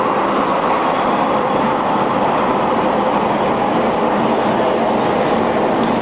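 Beijing subway train running, with steady, loud rail noise.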